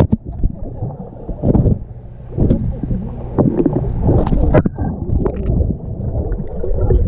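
Pool water splashing and sloshing close to the microphone in irregular surges, with wind buffeting the mic.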